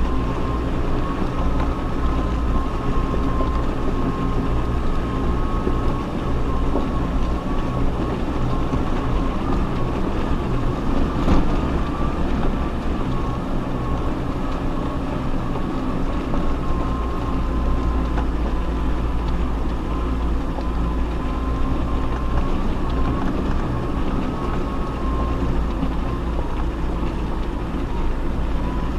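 Off-road 4x4 vehicle's engine running steadily at low speed, with a steady high whine over it. A single knock sounds about eleven seconds in.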